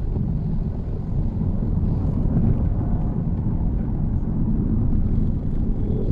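Steady low rumble of a Mitsubishi Xpander driving, its road and engine noise heard from inside the car.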